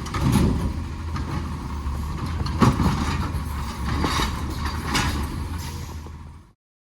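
Garbage truck's diesel engine running with a steady low rumble, broken by several sharp metal clanks. The sound cuts off suddenly near the end.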